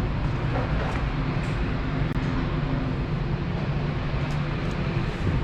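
Steady low drone of jet aircraft engines running at an airport, with a constant hum under an even rush of noise.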